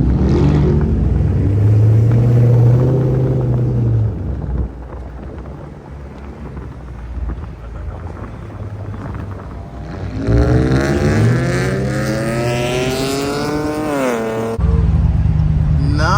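Car engines: a loud low engine rumble, then about ten seconds in an engine revs up with a steadily rising pitch for about four seconds and drops off, followed suddenly by another loud low engine rumble.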